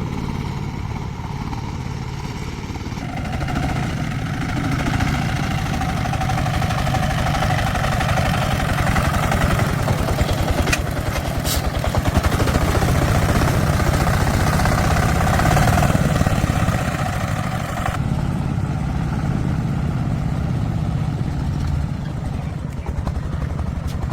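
Engine running steadily with a fast even pulse, growing louder a few seconds in and easing back near the end, as if revved up and then throttled down.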